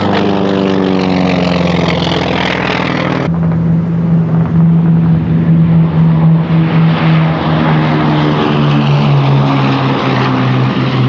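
Propeller-driven piston aircraft flying past, its engine drone falling in pitch as it goes by. About three seconds in the sound cuts abruptly to another steady propeller-engine drone.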